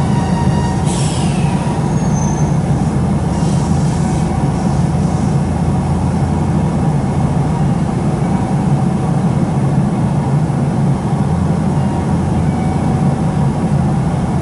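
Inside a Nankai 2300 series electric train as it slows to a stop at a station: a steady low rumble and hum in the car, with a brief high hiss that falls in pitch about a second in.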